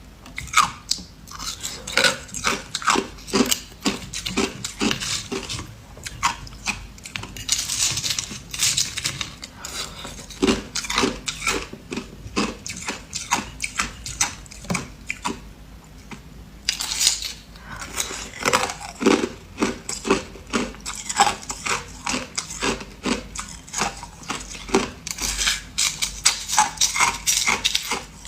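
Ice being bitten and chewed close to the microphone: rapid sharp crunches and cracks in repeated bursts, with a few louder crunchy spells as fresh ice is bitten.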